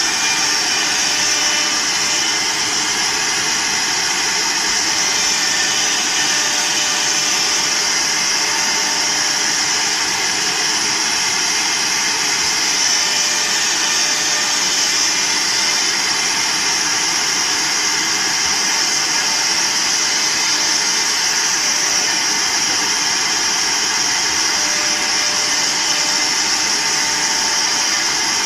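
A three-process multi-head CNC router running, with a steady, high-pitched hiss of spinning spindles and cutting that holds level throughout.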